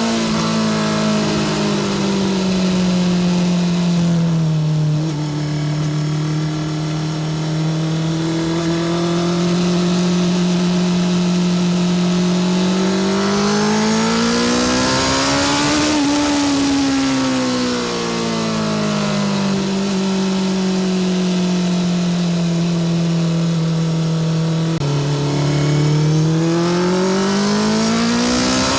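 Honda CBR650R's inline-four engine through a Spark full titanium exhaust, under way: the engine holds a steady note for long stretches, revs climb and fall back about halfway through, and near the end the note steps down and rises again as it pulls.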